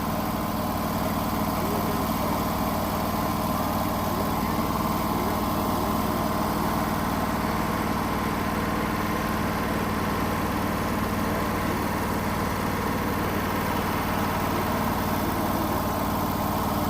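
Wood-Mizer LT35 portable sawmill's engine running steadily.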